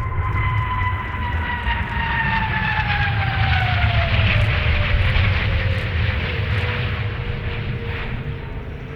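Hongdu L-15 jet trainer flying past, its twin turbofan engines' whine falling steadily in pitch as it goes by, over a loud rumble that swells about halfway through.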